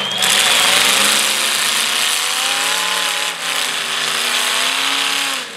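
Demolition derby cars' engines running hard under load as the wrecked cars push against each other in the dirt, the engine pitch wavering up and down under a loud, rushing noise.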